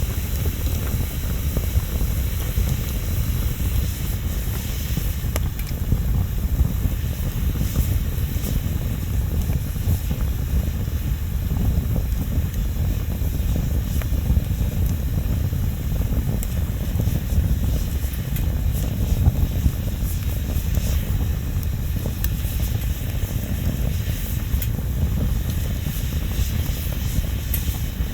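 Wood bonfire burning with a steady low rumble, broken by scattered sharp crackles and pops.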